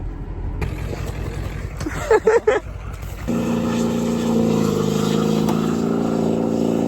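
Pickup truck engine running steadily. Brief voices about two seconds in, before the engine note becomes the clearest sound.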